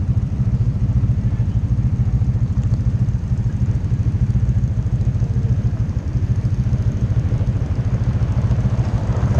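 Motorcycle engine running steadily with a low, rapid pulsing exhaust beat.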